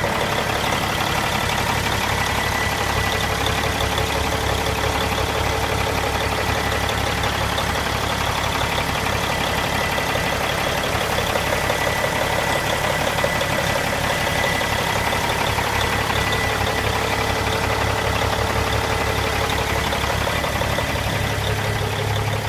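Rebuilt Cummins ISX inline-six diesel in a 2008 Kenworth W900L highway tractor, idling steadily, with a faint steady whine over the engine note.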